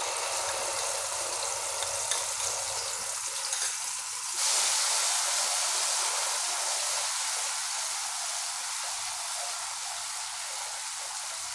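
Wet mustard-spice paste sizzling in hot oil in a frying pan as it is stirred with a wooden spatula. The sizzle gets louder about four seconds in.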